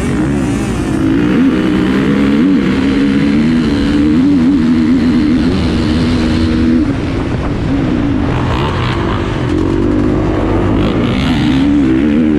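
Motocross bike engines revving hard, their pitch rising and falling again and again as the throttle opens and closes and the bikes shift gears.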